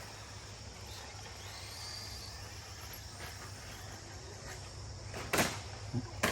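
Background at an RC race track: a faint whine from the RC short course trucks over a steady hum, with two sharp knocks near the end about a second apart.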